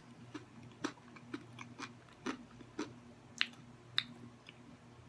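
Close-up chewing of crispy fried food, with sharp crunches about two a second that stop about four seconds in.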